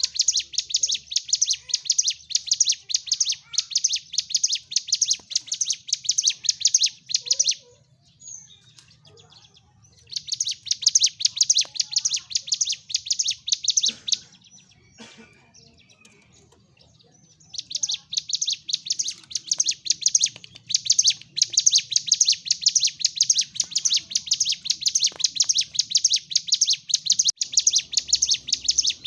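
Ciblek gunung (a mountain prinia) singing a loud, rapid run of sharp repeated chip notes in long bursts, breaking off twice for a few seconds before resuming. The song is the bird's aggressive, competitive singing.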